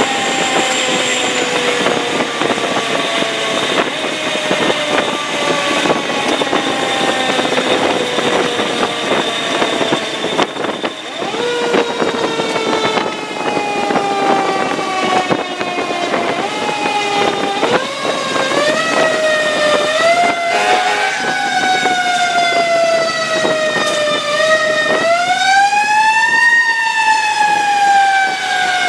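Fire engine responding under a mechanical siren: the siren's wail slides slowly down in pitch and is wound back up twice, once a little before the middle and again near the end, over steady engine and road noise.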